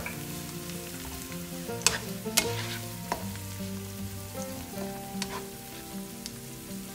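Garlic, chilies and lemongrass sizzling in hot oil in a nonstick wok while a plastic spatula stirs them, knocking against the pan a few times.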